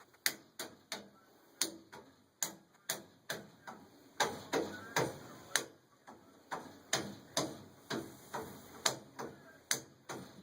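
Furnace making a repeated sharp clicking, about two clicks a second at slightly uneven spacing.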